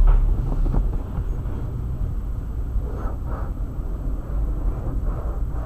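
A car running, with a steady low rumble of engine and road noise that eases off in the first second.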